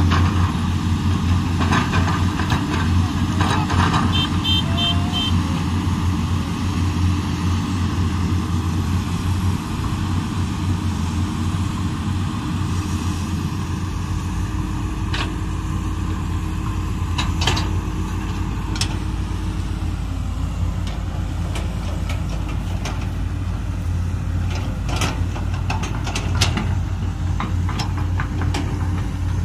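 Komatsu PC200 excavator's diesel engine running steadily, its low rumble growing heavier about halfway through, with occasional sharp knocks.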